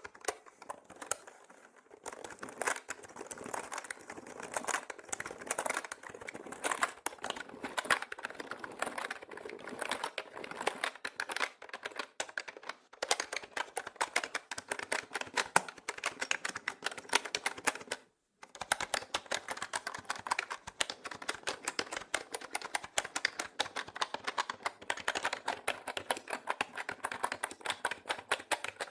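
Mechanical keyboard being typed on quickly and continuously, a dense run of key clicks and clacks, panned around the listener in 8D style. The clicking cuts out for a moment about two-thirds of the way through, then resumes.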